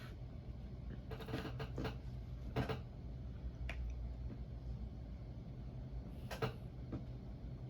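Close-miked eating sounds from someone chewing pancakes: scattered short clicks and smacks of the mouth, the loudest about two and a half seconds in and again about six seconds in, over a low steady hum.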